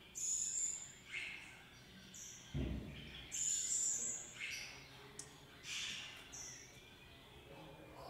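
Birds calling: short high-pitched chirps about once a second, alternating between a higher and a lower note. A brief low thud about two and a half seconds in.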